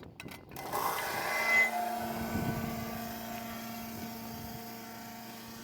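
A few clicks, then a motor starts about a second in, swells briefly and settles into a steady hum that slowly fades.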